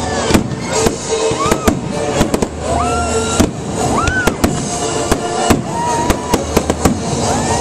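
Aerial fireworks going off in quick succession: a dense run of sharp bangs and crackles, with music playing underneath.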